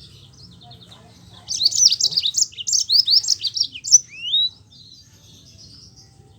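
Yellow-fronted canary (Mozambique canary) singing a loud, rolling phrase of rapid sweeping notes for about three seconds, starting about a second and a half in and ending in a swooping glide. Quieter twittering comes before and after the phrase.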